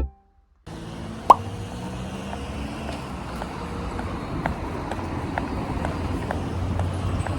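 Street ambience with a steady hum of traffic and footsteps clicking about twice a second. There is a short sharp squeak about a second in.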